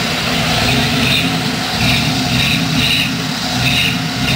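Vehicle engine running steadily, with short high-pitched squeals repeating about once a second.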